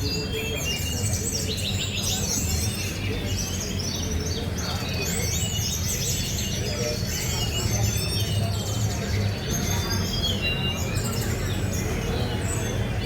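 Caged brown-chested jungle flycatchers (SRDC) singing in competition, several birds' rapid chirps and trills overlapping without pause, over a low crowd rumble.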